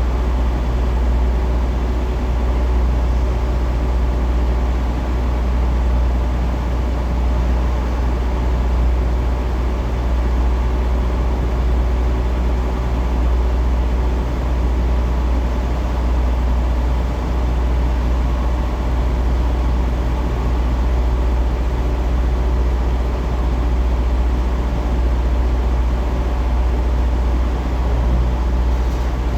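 Heavy diesel truck engine running steadily with a deep low rumble.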